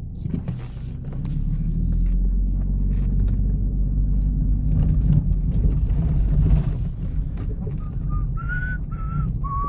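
Car engine and road rumble heard from inside a moving car, louder from about a second in. Near the end come a few short, high-pitched squeaks.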